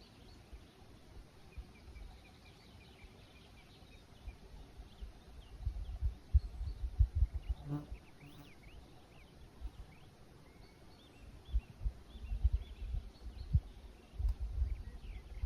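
Forest ambience: many small birds chirping and twittering at a distance, with low buffeting gusts of wind on the microphone around the middle and again toward the end. A single short, lower call sounds about halfway through.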